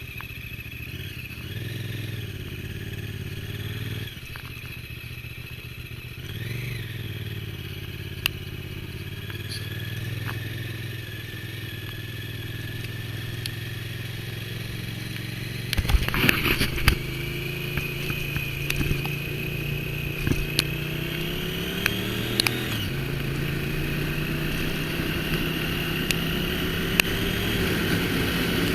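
Twin-cylinder motorcycle engine running under way at a steady cruise, its note briefly lifting and dipping a few times with the throttle. A short burst of clattering noise comes about halfway through.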